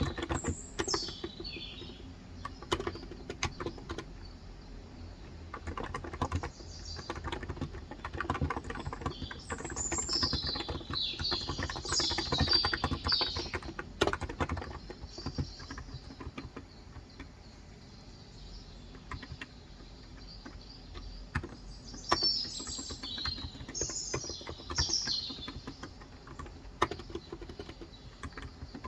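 Typing on a Cox Endeavour electrocapacitive 35 g tenkeyless keyboard: quick, irregular key strokes, a little sparser about two-thirds of the way through. Small birds chirp in short flurries at the start, about ten seconds in and again about twenty-two seconds in.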